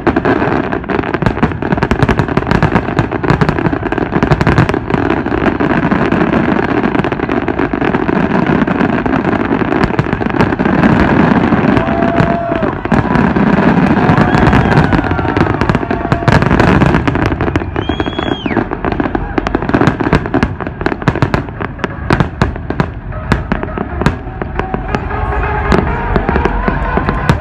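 Loud fireworks display: a dense, continuous string of bangs and crackles, with a few brief whistling tones partway through.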